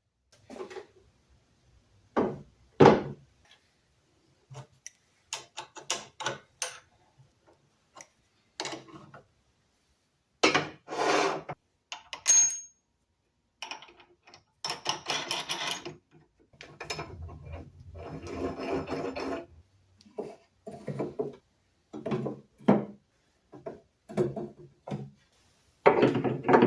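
Workshop handling sounds: a run of short, irregular knocks and scrapes of wood and tools, with stretches of dead silence between them.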